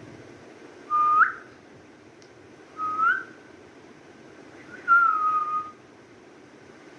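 Three whistled notes about two seconds apart: two short ones that sweep upward at the end, then a longer one that slides slightly downward.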